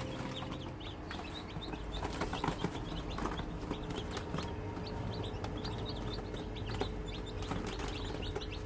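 Many newly hatched black chicks peeping, a dense run of short, high, falling chirps overlapping one another, with a few soft knocks of movement about two to three seconds in.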